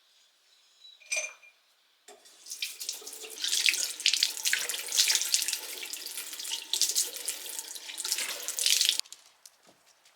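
Water running from a tap into a sink for about seven seconds, then cut off suddenly. A short click comes just before it.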